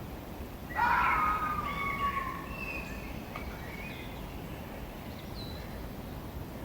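An animal calling: a loud pitched cry about a second in that falls slightly in pitch, followed by softer shorter calls, over a steady background hiss.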